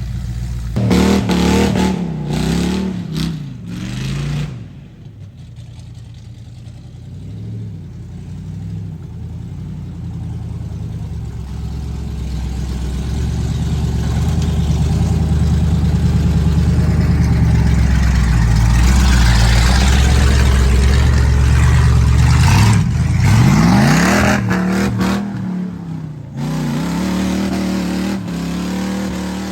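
Ford mud truck's engine revving hard, its pitch swinging up and down, then held at high revs through a long, loud stretch in the middle before it drops and revs again near the end.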